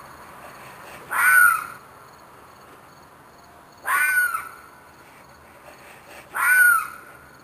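An animal's screeching, crying scream, repeated three times about two and a half seconds apart, each cry about half a second long and bending in pitch. The recordist takes it for an animal in distress, perhaps a fox or a coyote.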